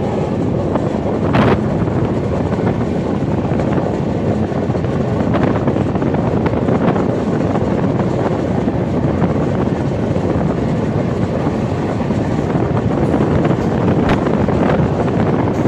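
Passenger train running at speed, heard from an open coach door: a steady rumble of the wheels on the rails with wind buffeting the microphone, and a few sharp clicks scattered through it.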